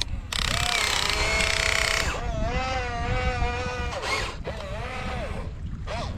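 Electric motors of a radio-controlled excavator whining in three spurts, each rising in pitch, holding and falling away, over a steady low rumble.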